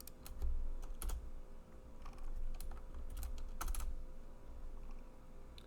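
Computer keyboard keys being struck in short irregular clusters of a few keystrokes, as code is edited, over a steady low hum.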